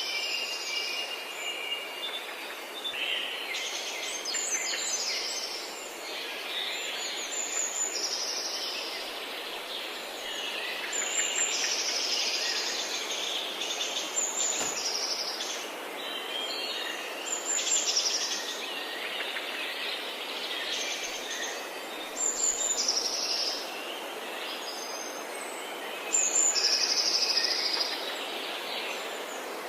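Several forest birds singing and calling at once, with short repeated high chirps and trills overlapping each other, over a steady background hiss.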